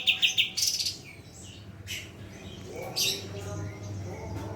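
A songbird giving a fast trill of repeated high chirps, about seven a second, that stops about half a second in. A short harsh call follows, then a few scattered sharp chirps.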